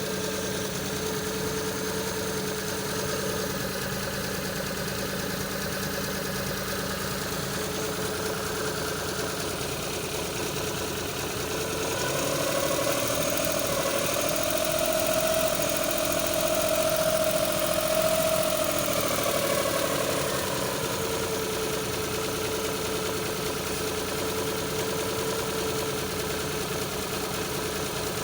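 Suzuki F6A three-cylinder engine idling with an up-and-down idle. The revs climb about twelve seconds in, hold higher for several seconds, then sink back to a steady idle: the engine is hunting rather than holding a stable idle speed.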